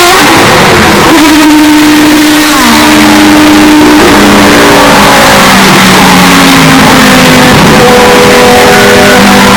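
Historic Group C prototype race cars passing at speed, very loud, with several engines overlapping. Their pitch drops as each car goes by and steps between gears.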